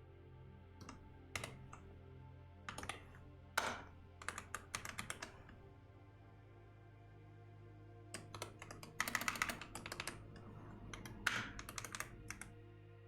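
Typing on a computer keyboard: irregular bursts of key clicks with a few seconds' pause midway, over soft ambient background music.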